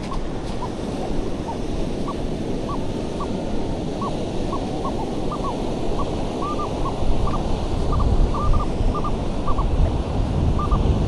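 Steady surf and wind noise on the microphone, with a metal detector giving short repeated beeps that come more often from about six seconds in as it sweeps over a target.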